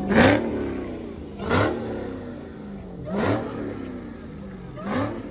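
A car engine revved repeatedly, about once every second and a half: each time the revs climb sharply to a loud peak, then fall away before the next blip.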